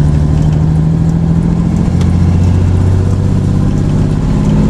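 International truck's diesel engine running under way, heard from inside the cab. Its pitch drops about two seconds in and climbs again near the end. The driver calls the truck gutless.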